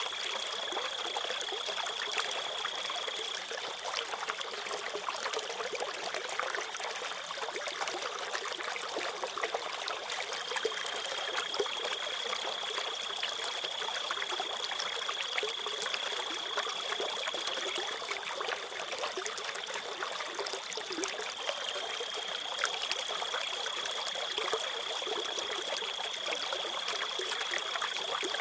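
Water trickling and running like a small stream, with crickets' steady high-pitched trill over it that stops twice for several seconds and comes back.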